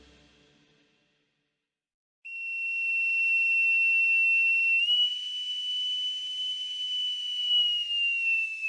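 Boatswain's pipe sounding one long, steady, high whistle that steps up slightly midway and falls away at the end: the call that comes before a shipboard announcement over the ship's speakers.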